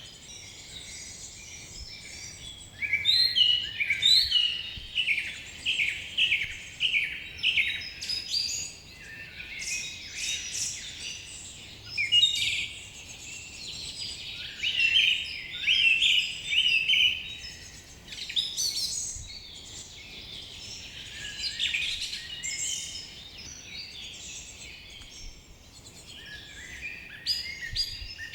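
Several songbirds singing and chirping together, with overlapping strings of quick high notes in bursts every few seconds over a faint steady background hiss.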